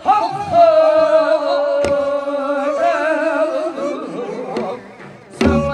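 Korean Namdo folk singing: one long, heavily vibrated held note of the song's refrain, bending in pitch. A single sharp drum stroke sounds about two seconds in.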